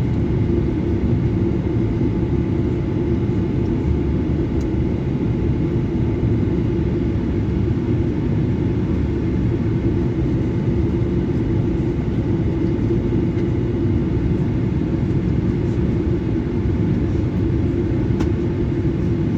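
Steady drone of a Boeing 737-900ER's CFM56-7B engines and airflow, heard from inside the passenger cabin. The rumble stays deep and even throughout, with a steady hum riding on it.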